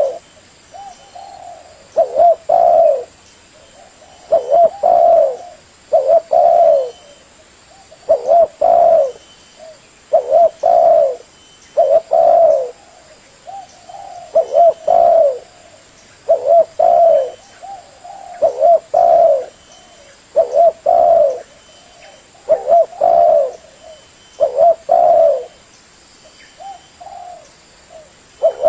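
Spotted dove cooing: short phrases of a few low coos, repeated about once every two seconds.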